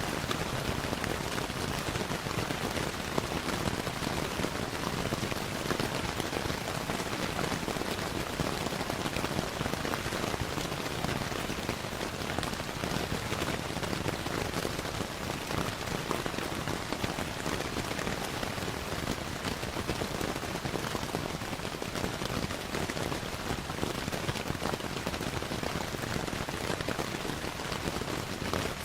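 Steady rain falling, an even, dense patter that does not let up.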